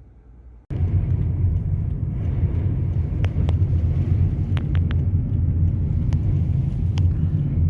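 Steady low rumble of a car on the road, starting abruptly less than a second in, with a few faint sharp clicks scattered through it.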